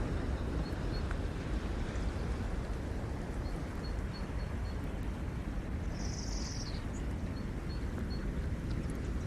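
Ocean surf washing onto the shore, a steady rush with a low rumble. Small birds chirp over it in short runs of quick high notes, with one longer, higher call about six seconds in.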